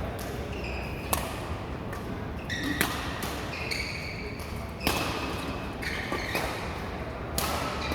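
Badminton rally on an indoor court: four sharp racket hits on the shuttlecock, spaced about two seconds apart, with short shoe squeaks on the court floor between them.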